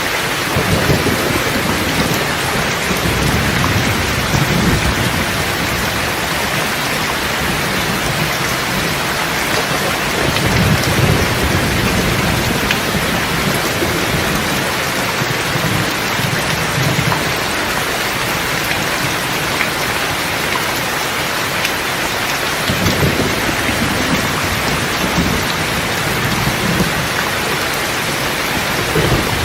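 Steady heavy rain with low rolling thunder rumbling, swelling and fading several times.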